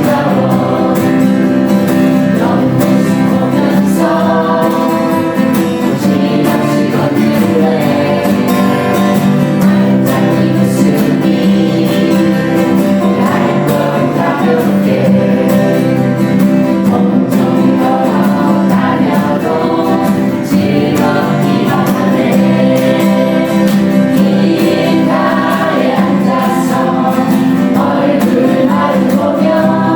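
A group of voices singing a song together, continuous throughout.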